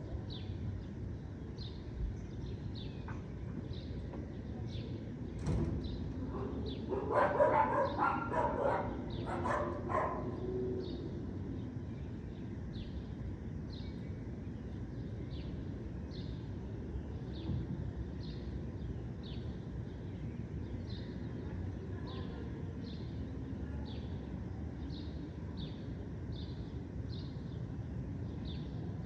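Evening park ambience: a steady low hum of distant city noise, with a short high chirp repeating about once a second. The loudest moment is a quick run of animal calls lasting about three seconds, beginning about seven seconds in.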